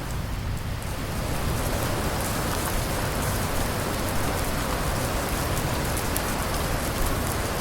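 Steady rain falling, with a deep rumble underneath.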